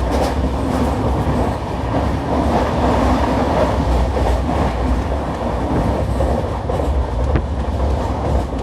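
Nagercoil Express passenger train running at speed, heard from on board: a steady wheel and rail rumble with faint clacks of the wheels over rail joints.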